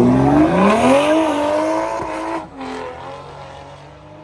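A car's engine revving hard: its pitch climbs over about a second and holds at high revs, then drops off abruptly about two and a half seconds in and fades away.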